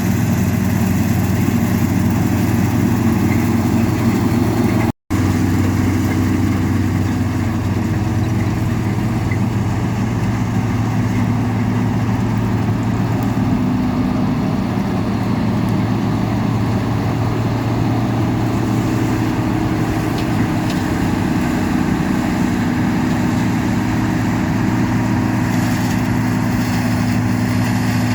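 Harvest machinery's diesel engine running steadily, a constant low drone that drops out for a split second about five seconds in.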